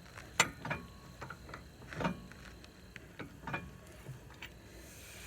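Tire iron clicking and knocking against the lug nuts as they are snugged up on the wheel: a scattering of short metal clicks and knocks, the sharpest about half a second in.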